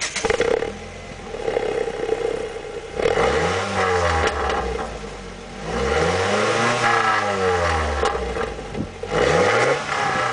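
Ford Focus 2.0 four-cylinder engine, with a catalytic converter delete and an Asso rear exhaust, idling just after starting and then revved three times while standing, each rev rising and falling. The longest rev is in the middle.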